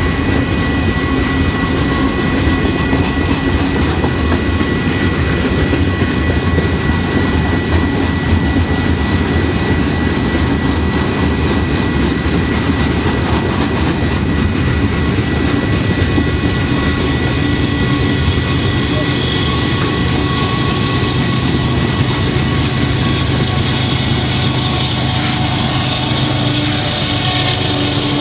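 Loaded freight train boxcars rolling steadily past, with the continuous rumble and clatter of steel wheels on rail joints and a steady high tone over it. In the last several seconds a low diesel engine hum builds as the train's locomotives come by.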